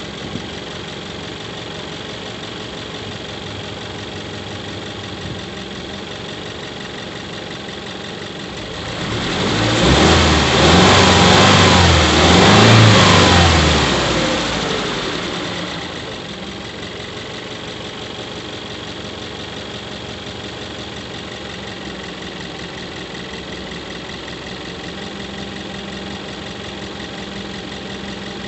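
Subaru Levorg 1.6GT-S's 1.6-litre turbocharged flat-four idling, revved up about nine seconds in, held for several seconds, then settling back to a steady idle. A thin steady high tone runs over the engine, in keeping with the chirping squeal from the engine bay that the owner suspects is an abnormal noise.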